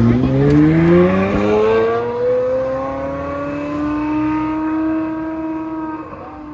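A supercar's engine accelerating away, its note rising over the first few seconds, then holding steady as it fades into the distance.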